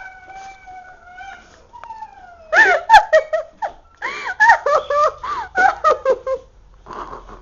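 A girl's voice squealing and giggling without words: a drawn-out whine at the start, then two spells of high, wavering squeals and laughter.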